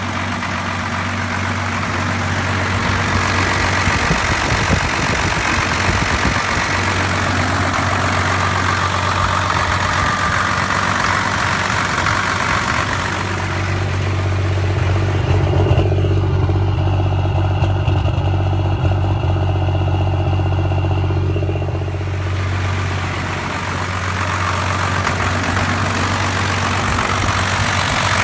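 1993 Dodge Cummins 5.9-litre 12-valve inline-six diesel idling rough and stuttering. The owner suspects the lift pump, the injection pump or the overflow restriction screw. From about 13 seconds in, the sound turns duller and deeper for around nine seconds.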